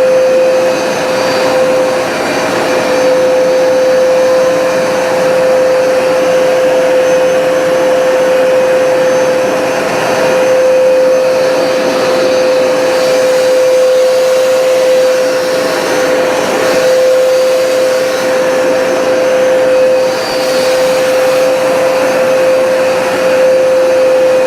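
Hoover Smartwash automatic carpet cleaner running, a steady motor whine over the rush of its suction, with the level dipping slightly now and then.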